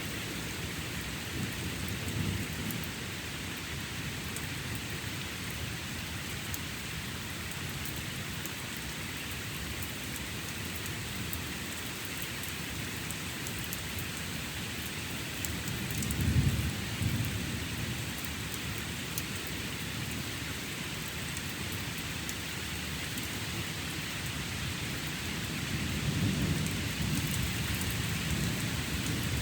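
Steady rain falling during a thunderstorm, with thunder rumbling: a faint rumble about two seconds in, a louder peal about halfway through, and a longer rolling rumble near the end.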